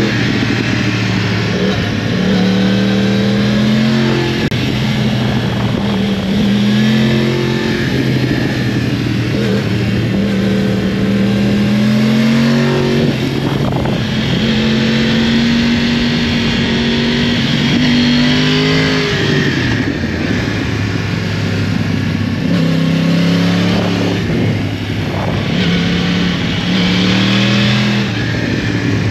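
2012 Yamaha YZF-R1's crossplane inline-four engine running hard, its pitch climbing and dropping again and again as the throttle opens and closes. A steady hiss runs underneath.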